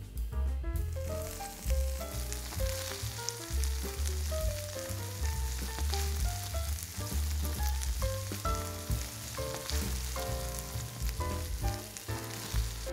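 Egg, apple and tortilla sizzling in oil in a frying pan, starting about a second in, under background music with a melody and a bass line.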